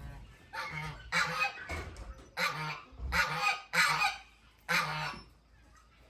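Domestic poultry calling: a run of about seven loud, short calls over some five seconds, each one separate.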